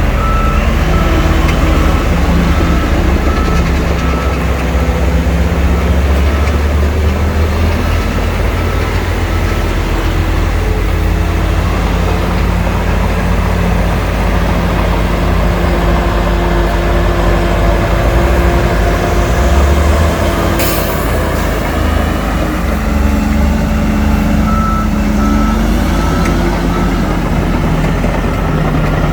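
Heavy diesel earthmoving machinery, a bulldozer and dump trucks, running steadily. A reversing beeper sounds for the first several seconds and again briefly near the end. About twenty seconds in there is one short, sharp hiss.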